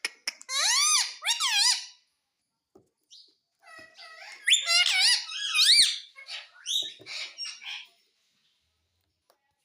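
Pet parrot giving high, squeaky calls that rise and fall in pitch. There is a short run of them near the start, then a longer, busier run of chattering squeaks through the middle.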